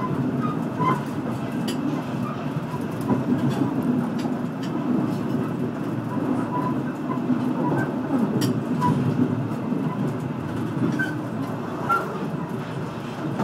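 Passenger train running along the track, heard from inside a carriage: a steady low rumble of wheels on rail with scattered sharp clicks.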